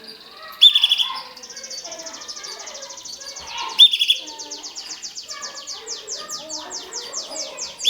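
Mosaic canary singing a long, unbroken run of fast trills that slow into repeated down-sweeping notes near the end. Loud, sharp chirps break in about a second in, near four seconds and again at the end.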